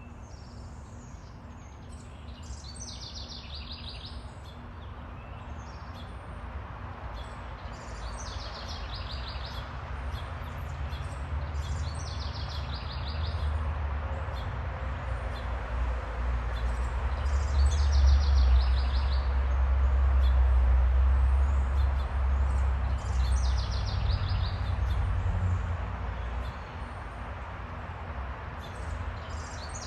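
Backyard songbirds singing short, high trilled phrases every few seconds. Under them a low rumble builds, peaks in the middle and fades away.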